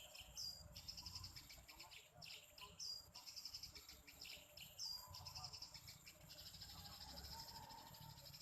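Faint, steady high trilling of insects such as crickets, with a small bird giving three short falling chirps about half a second, three seconds and five seconds in.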